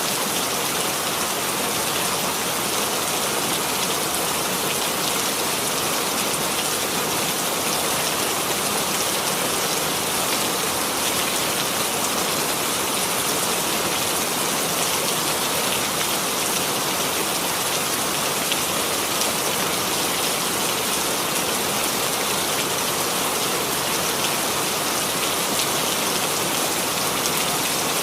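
Steady rain falling, an even hiss of many drops pattering on a surface, without letting up.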